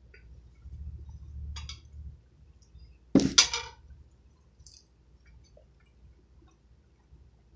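A person chewing a bread roll with soft filling close to the microphone, with a muffled rumble of mouth and handling noise near the start. About three seconds in there is a sharp double clink, the loudest sound.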